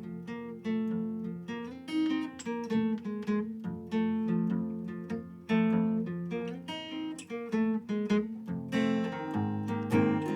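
Instrumental break of a song: an acoustic guitar being strummed and picked, note after note in a steady rhythm, with no singing.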